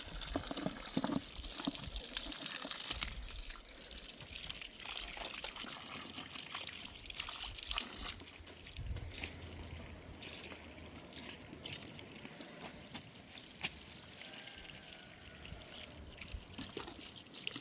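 Water trickling steadily, with a few faint clicks and knocks scattered through it.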